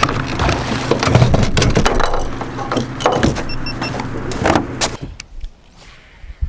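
An engine idling steadily under a clatter of knocks and bumps as gear is handled, with a short run of high electronic beeps in the middle. About five seconds in, the engine sound cuts off to a much quieter scene.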